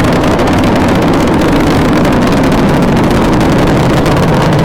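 Space Shuttle Discovery launch: the solid rocket boosters and main engines climbing after liftoff, a loud, steady, deep rumbling roar with a crackle in it, heard as the soundtrack of launch footage being played back.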